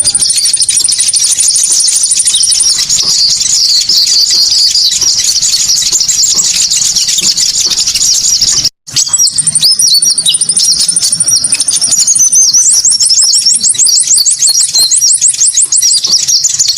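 Konin birds' lure call track: a dense, loud chorus of high chirping calls laced with fast repeated trills, cutting out for a split second about nine seconds in before resuming.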